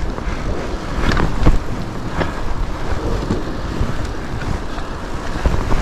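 Wind buffeting the microphone over a fat bike rolling through deep fresh snow, with a few sharp knocks between one and two seconds in.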